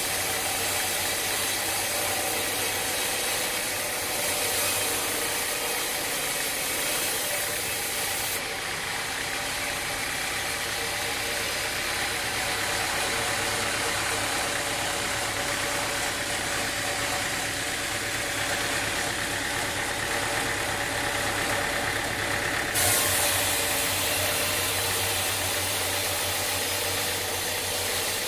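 Sawmill machinery running steadily: an engine-like hum with a constant mechanical noise.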